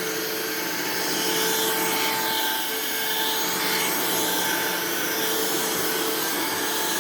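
Hoover React cordless stick vacuum running steadily while vacuuming: a steady rush of air with a constant motor whine, not very loud.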